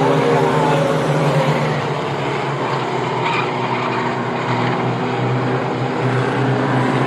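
Racing trucks' engines running steadily as the field laps the short track, a continuous drone with no letup.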